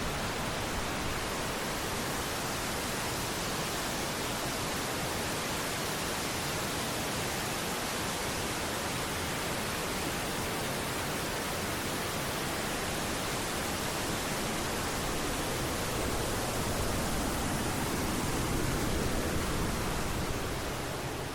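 High Shoals Falls, a waterfall of about 50 ft, making a steady, even rush of falling water.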